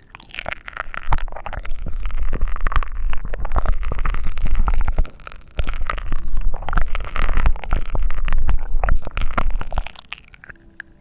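Close-miked ASMR mouth sounds: dense crackling over a low rumble, in two long stretches with a brief break about five seconds in.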